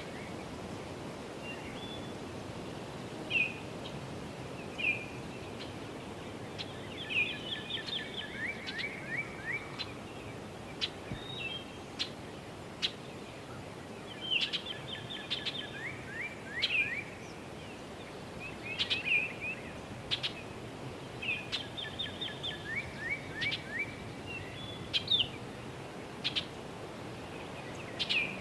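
Songbirds singing repeated phrases of quick, falling notes every few seconds, over a steady low hum of distant road traffic and wind. Irregular single sharp taps of a woodpecker pecking at a tree sound between the songs.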